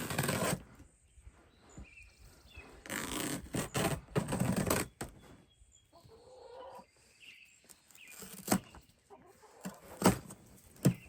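A cardboard box being opened and unpacked: two bursts of rustling and scraping cardboard and packaging, then quieter handling with a few sharp knocks near the end.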